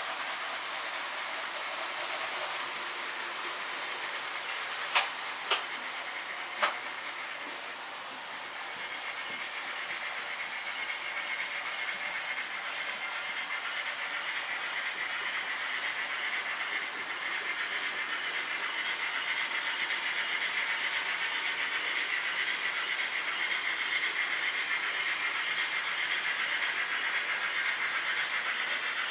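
H0-scale model trains running on the layout: a steady clattering rattle of small wheels on the track with motor hum, growing louder from about a quarter of the way in as a train comes closer. Three sharp clicks come close together about a fifth of the way in.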